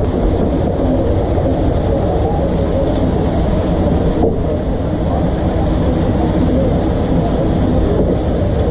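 Steady machinery noise in a working food truck kitchen: a continuous low rumble with a constant high hiss over it.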